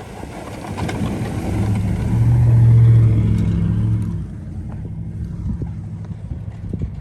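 A motor vehicle passing by: a low engine hum that swells to its loudest about two to three seconds in and then fades, with wind buffeting the microphone.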